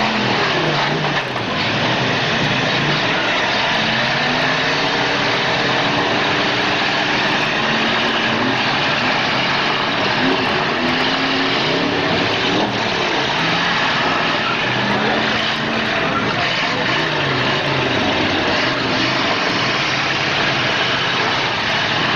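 Demolition derby car engines revving hard, their pitch rising and falling again and again, over a steady dense roar. A couple of sharp knocks come through, about a second in and around the middle.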